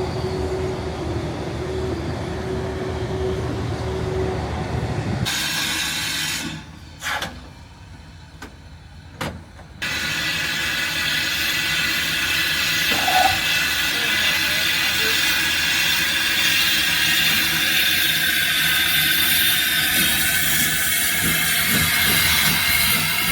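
Saddle-tank steam locomotive 'Trojan' No. 1340 hissing steadily with escaping steam. Before this come a few seconds of lower rumbling and some short, abruptly cut shots.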